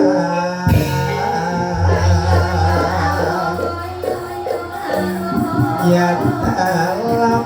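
Banyumas gamelan music accompanying ebeg, with sustained pitched tones, jingling percussion and a sung voice. A sharp struck note comes just under a second in, followed by a low hum.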